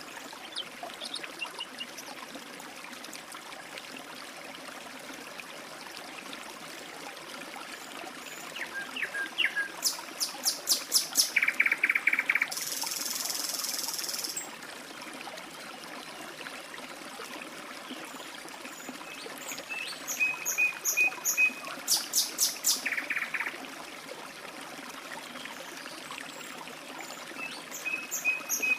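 Water trickling steadily in a stream, with songbirds chirping in short bursts of rapid repeated notes and a loud buzzy call lasting about two seconds near the middle.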